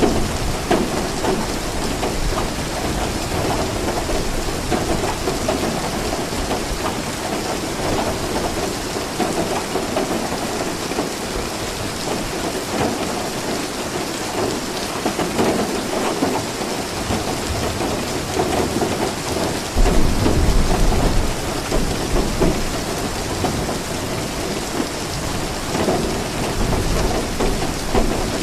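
Steady heavy rain falling, with low rumbles of thunder underneath; a louder roll of thunder sets in suddenly about two-thirds of the way through.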